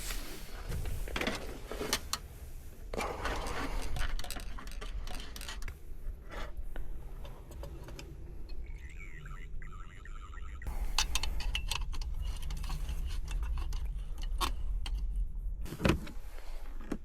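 Camping gear being handled and set up: scattered metallic clinks and clicks with rustling, over a low steady rumble.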